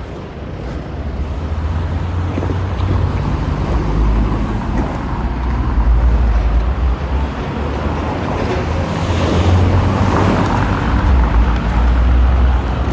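Outdoor street noise dominated by a heavy, uneven low rumble, which grows louder a couple of seconds in. A broader hiss swells and fades around the middle.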